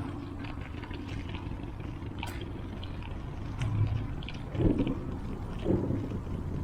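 Wind and road rumble on the microphone of a camera held in hand while riding a bicycle, steady throughout, with light clicks and a couple of louder bumps a little past the middle.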